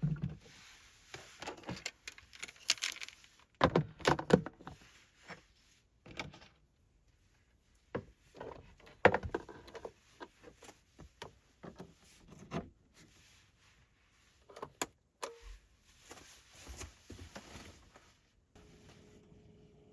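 Objects being handled in a small enclosed space: irregular knocks, clinks and rustles with short pauses between them. Near the end a steady low hum with a single held tone starts up.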